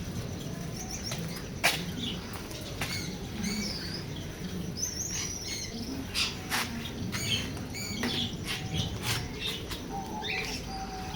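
Small birds chirping in many short calls, with sharp clicks scattered among them.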